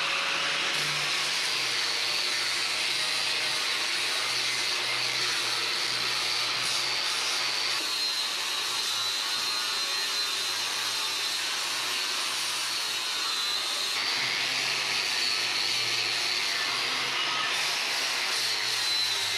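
Electric orbital sander running steadily on an old oak beam: a continuous high whine over the hiss of abrasive rubbing on wood, the whine's pitch wavering a little.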